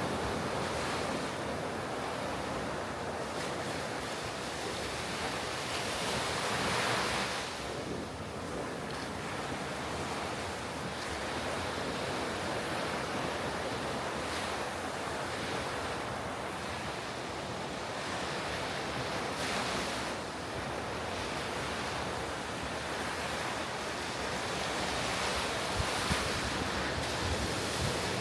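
Ocean waves breaking and washing on the shore, a continuous surf with swells as individual waves crash, one stronger crash about seven seconds in. Wind buffets the microphone.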